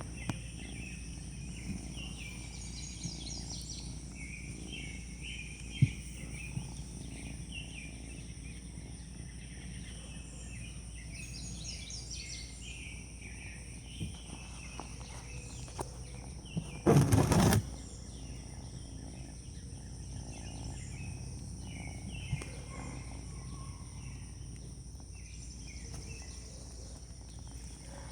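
Birds chirping in short bursts over a steady high-pitched insect hum, with one loud brief rustle about seventeen seconds in.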